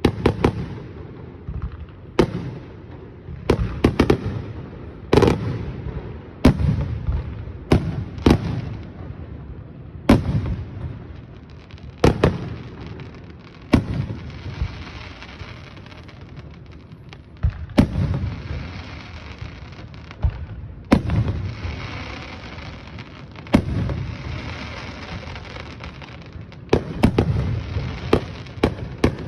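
Aerial fireworks display: shells bursting in a steady run of sharp booms every second or two, some in quick pairs, each followed by a rolling echo, with stretches of crackling hiss from crackle effects.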